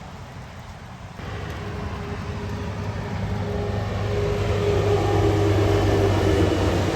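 Heavy truck approaching, its diesel engine drone at steady revs growing steadily louder over tyre noise.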